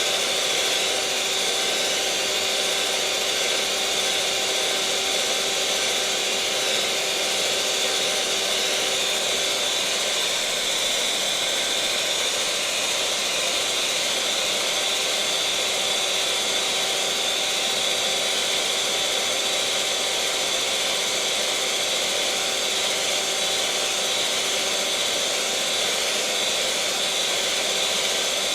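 Electric mixer motor running at a steady speed: an even whirring hiss with a steady whine, unchanging.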